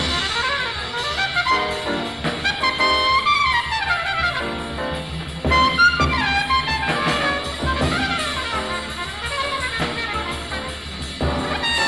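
Fast small-group bebop jazz: trumpet and alto saxophone play quick melodic runs over a rhythm section of piano, bass and drums.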